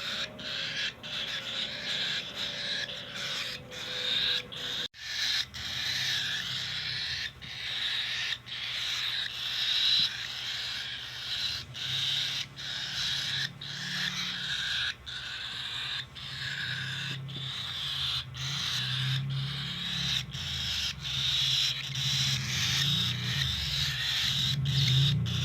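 Cockatiel chick giving its raspy begging call over and over in short pulses, a little over one a second: the food-begging call of a chick being hand-fed.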